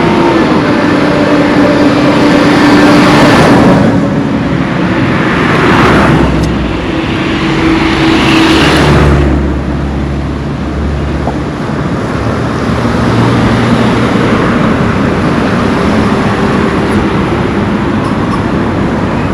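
Road traffic passing close by: engines and tyres of several vehicles, with three passes that swell and fade in the first half, then a steady traffic noise.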